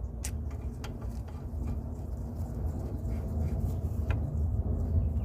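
Steady low rumble of moving air on the microphone, with a few light metallic clicks as a brake caliper bolt is handled and started by hand.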